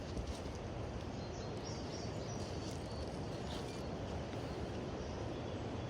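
Steady rushing of river rapids, with a few faint high bird chirps.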